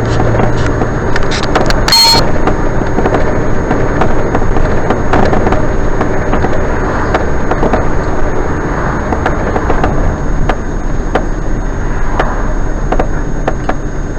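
A motor vehicle running on the road: steady engine and road rumble, with scattered light knocks and a short sharp click about two seconds in.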